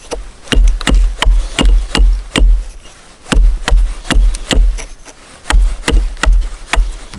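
Wood being struck hard and repeatedly, as in chopping or batoning firewood: sharp knocks with a heavy thud, about two or three a second in runs with short pauses.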